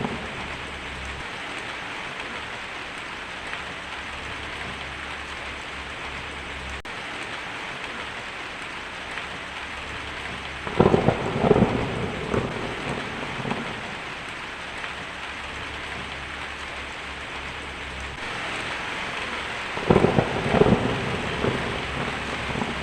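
Heavy rain drumming steadily on a tin roof, with two rolls of thunder, one about halfway through and another near the end, each breaking into several cracks over a couple of seconds.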